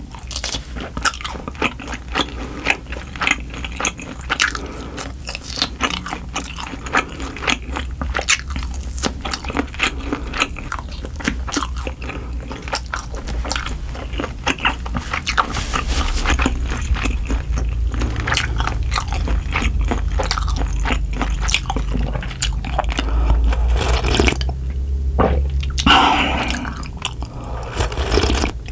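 Close-miked eating: biting, gnawing and chewing grilled oxtail meat off the bone, a steady run of small wet clicks and smacks.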